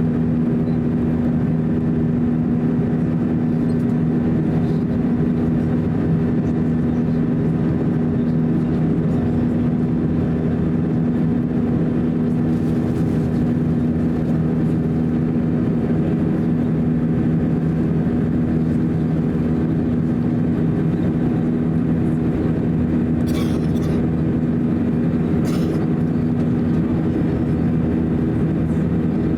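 Airbus A321 cabin noise from a window seat: its two IAE V2530-A5 turbofan engines running with a steady hum of several held low tones over a rush of air noise. A couple of faint ticks come near the end.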